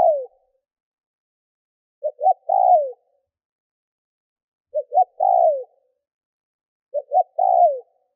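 Spotted dove cooing: a repeated phrase of two short coos followed by a longer coo that falls in pitch. The phrase comes about every two and a half seconds, three times in full, with the end of another right at the start.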